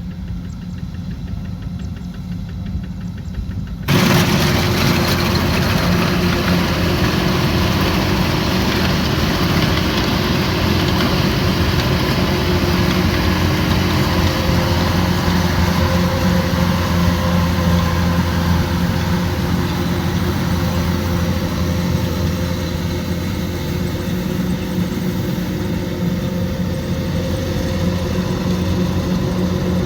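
Kubota combine harvester's diesel engine running steadily under load, a continuous machine drone with a low hum. About four seconds in it becomes suddenly louder and fuller.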